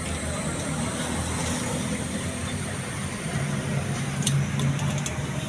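Steady rumble of a motor vehicle running with road traffic noise, with a low engine hum that grows stronger past the middle and a few faint clicks about four seconds in.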